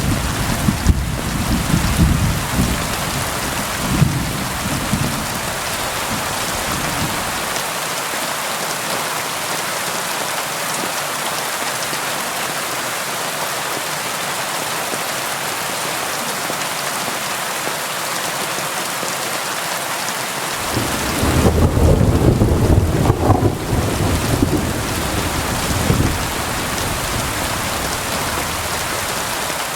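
Steady rain. A low rumble of thunder at the start dies away about seven seconds in, and a second roll of thunder rumbles from about two-thirds of the way through.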